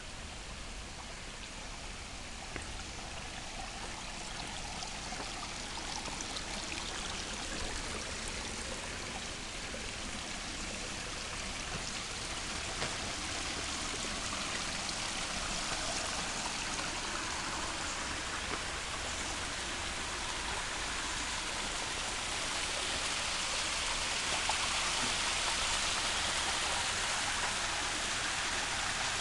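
Running water rushing steadily, growing gradually louder.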